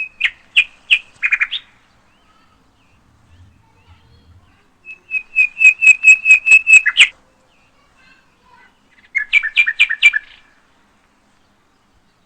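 A small bird chirping in three bursts of quick repeated notes: a short burst at the start, a longer run of about ten rapid chirps in the middle, and a shorter burst near the end.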